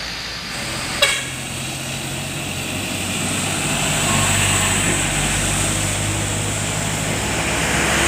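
Heavy truck passing on the road, its engine note and tyre noise swelling toward the middle. A single sharp click about a second in.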